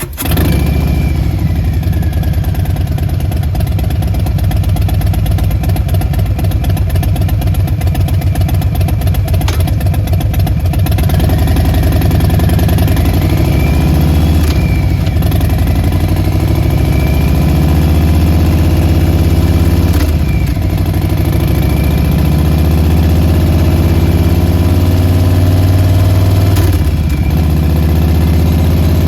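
Harley-Davidson Softail Standard's Milwaukee-Eight 107 V-twin running at idle through Vance & Hines Short Shots slash-cut exhaust: a steady, deep, loping rumble. Engine speed rises slightly a couple of times.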